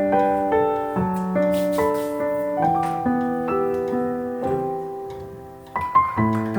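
Gentle background piano music, single notes and chords struck one after another and left to fade. A few sharp clicks sound about six seconds in, louder than the music.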